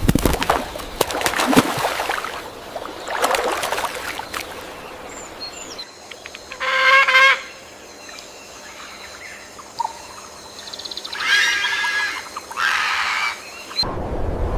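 Birds calling: a cluster of loud calls at the start, then a single loud pitched call about seven seconds in and two more near the end, in short clips spliced together.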